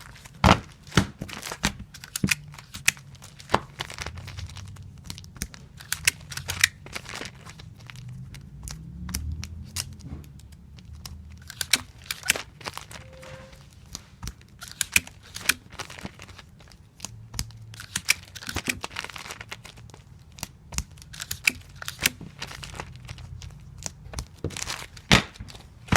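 Tape repeatedly pulled from a tape dispenser and torn off on its cutter while taping comic books: an irregular run of sharp snaps and rips, one every second or so.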